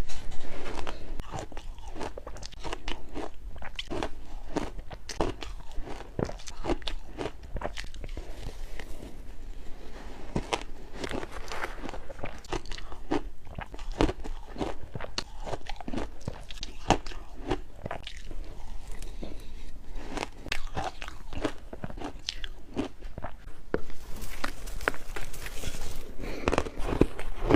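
A person biting and chewing shaved ice: a steady run of quick, crisp crunches, a little louder in the last few seconds.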